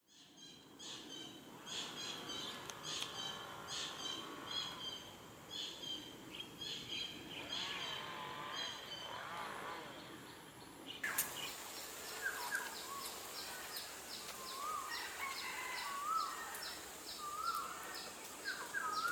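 Wild birds calling outdoors: series of short high chirps, then from about eleven seconds in, where the background changes suddenly, one bird repeats a short high note about three times a second under lower, wavering calls.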